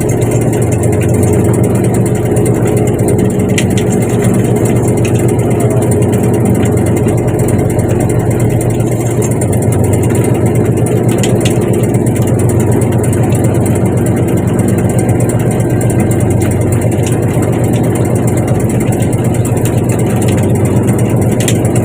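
A fishing boat's engine running at a steady pace, a loud continuous drone, with a few faint clicks on top.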